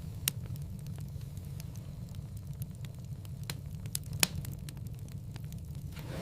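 Wood fire crackling in a fireplace: a steady low rumble of burning logs with scattered sharp pops, the loudest a little past four seconds in, and a brief hissing swell near the end.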